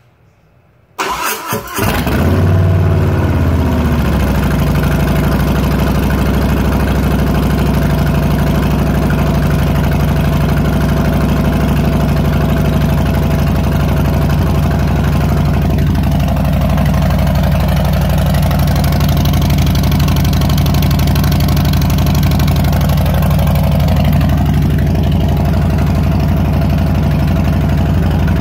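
2018 Harley-Davidson Street Bob's Milwaukee-Eight V-twin starting about a second in through Vance & Hines Twin Slash slip-on mufflers with competition baffles: a brief crank, then it catches, settles from a slightly higher speed and idles steadily. This is the first start on the new pipes.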